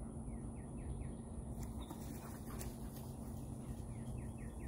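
A songbird singing runs of quick, downslurred whistled notes, about four or five a second: a short run near the start and a longer one starting near the end, over a steady low background hum.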